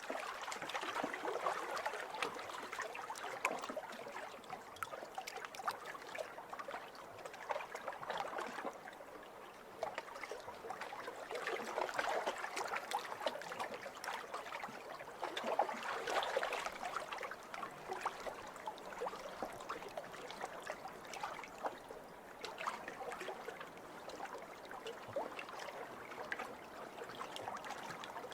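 Small waves lapping over a pebble beach: water washing in and out with many small clicks and rattles of pebbles. The sound swells and eases every few seconds as each wave comes in and draws back.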